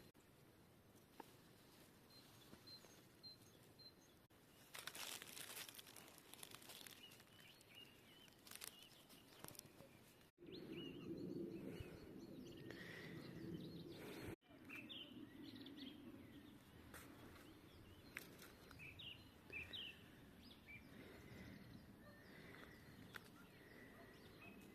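Faint rural outdoor ambience with small songbirds chirping here and there. A soft low background hum runs under it. The sound drops out briefly twice, about ten and fourteen seconds in.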